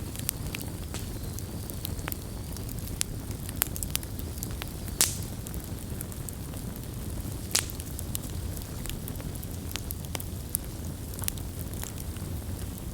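Campfire burning with a steady low rumble and scattered crackles, with two louder pops of the wood, about five seconds in and again about two and a half seconds later.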